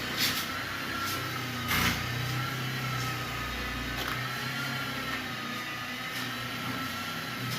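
A machine or motor running steadily, with a wavering whine. Two short knocks come in the first two seconds.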